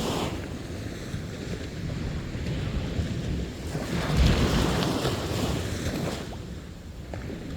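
Sea waves breaking on a beach: one surge at the start, a louder wave breaking about four seconds in, then washing back and fading.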